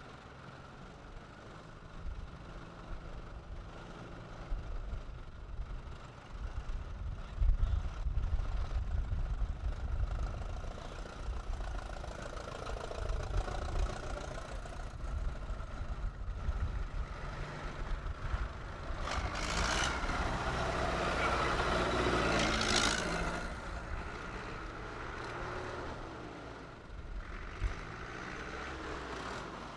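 Tractor engines running, with a low steady rumble; one grows louder and passes close about twenty seconds in.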